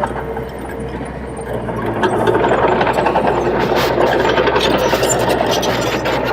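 Komatsu D21P bulldozer's diesel engine running steadily while pushing soil, getting louder about two seconds in, with scattered short clanks over it.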